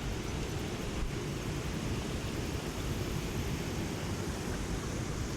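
Steady rushing of a flooded creek running high over a spillway: a continuous even noise, heaviest in the low end.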